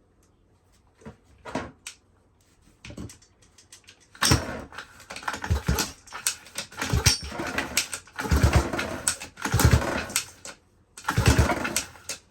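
Pocket bike's small engine being pull-started: a few light knocks, then repeated spells of cranking and sputtering with short gaps between them, not settling into a steady idle.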